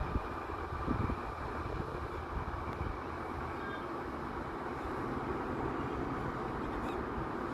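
Jet aircraft engines running steadily, a continuous roar-like rush with a faint high whine. Wind buffets the microphone in the first second.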